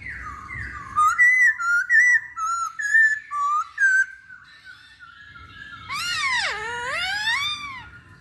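Poksay Hongkong (masked laughingthrush) singing: a quick run of loud, clear slurred whistles for about four seconds, then, after a short pause, a few long swooping whistles that dip low and rise again.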